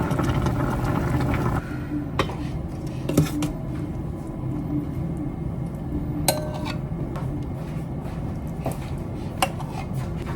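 Dishes and cutlery clinking: a few sharp clicks of utensils against tableware, one of them briefly ringing, over a steady low background hum.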